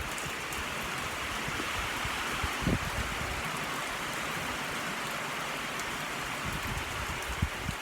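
Steady rain falling, an even hiss, with a couple of short low thumps, the clearest about three seconds in.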